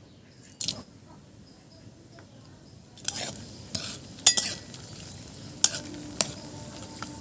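Whole spices tempering in hot mustard oil in a kadai: a light sizzle that builds from about three seconds in, with several sharp clinks of a metal spoon against the pan, the loudest about four seconds in.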